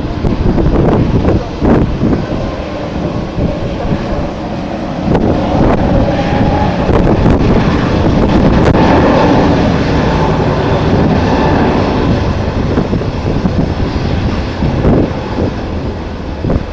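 Jet airliner's engines swelling to a peak around the middle and then easing off, under strong wind buffeting the microphone.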